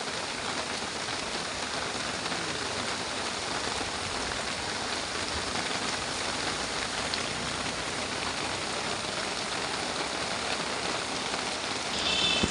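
Heavy rain pouring down steadily in a continuous, even hiss, with a brief tonal sound just before the end.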